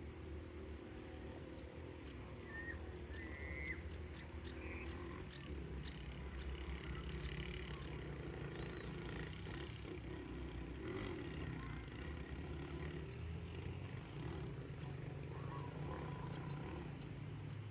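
Rural evening ambience: a steady low rumble with a low drone under it, with a few short bird chirps about three seconds in and a fainter call near the end.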